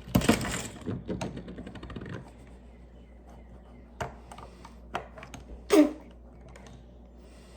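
Plastic Lego pieces clattering and clicking as they are handled and snapped together: a burst of rattling at the start, a quick run of small clicks, then a few separate clicks.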